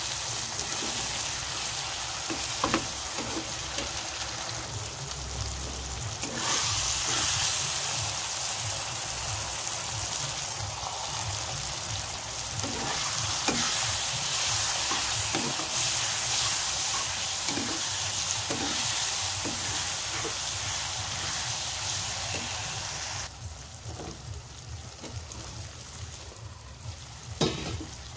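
Chopped vegetables sizzling in hot oil in a nonstick kadai while a spatula stirs and scrapes against the pan, with short scrapes and taps scattered through. The sizzling turns much quieter about 23 seconds in.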